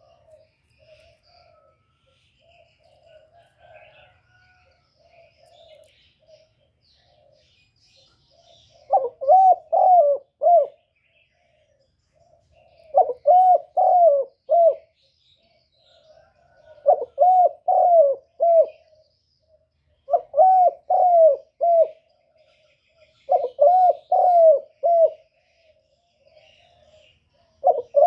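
A bird cooing: soft, faint calls at first, then from about nine seconds in loud phrases of four or five quick notes, repeated about every four seconds.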